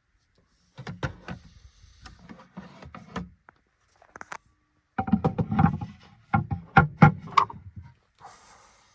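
Clatter and knocks of objects being handled at close range, in a few separate stretches with short quiet gaps; the loudest stretch comes about five seconds in.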